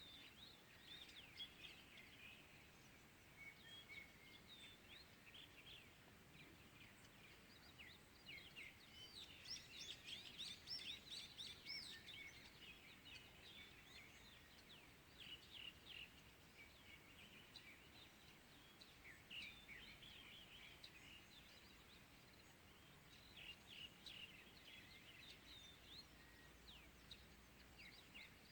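Faint dawn chorus of small birds: many quick, high chirps and twitters overlapping, busiest about a third of the way in and again near the end, over a soft steady outdoor hiss.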